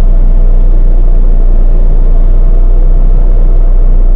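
Tractor-trailer's diesel engine running at a low, steady idle while the truck backs slowly, a continuous deep drone with no change in pitch.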